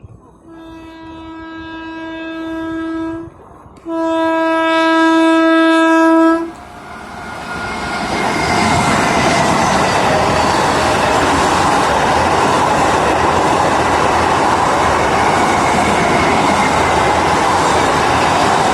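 Electric multiple-unit train sounding its horn in two long blasts, the second louder, then passing at speed with a steady, loud noise of wheels on the rails.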